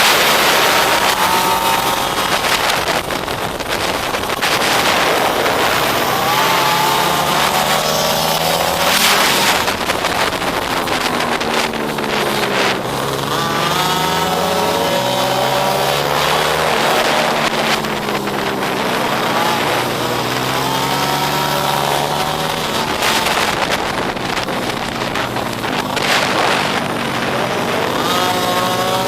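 Small pit bike engine being ridden, its pitch climbing and dropping again and again as the throttle opens and closes, with wind rushing over the microphone.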